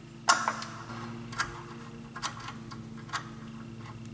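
Small metal parking-brake parts of a 2007 Ford Expedition's rear brake (shoe adjuster and spring hardware) clicking and clinking as they are handled, four sharp clicks about a second apart, the first the loudest, over a steady low hum.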